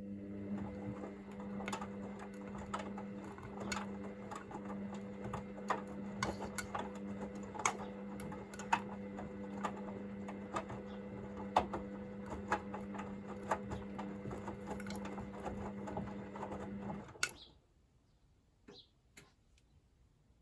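Hoover VisionDynamic washing machine's motor turning the drum through a small load in the heating phase of the wash: a steady motor hum with scattered clicks and knocks from the tumbling load. It stops with a click about 17 seconds in.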